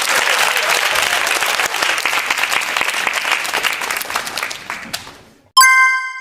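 Crowd applause, many hands clapping, fading out over the last couple of seconds. About five and a half seconds in comes a single bright ding, like a struck bell or chime, ringing briefly.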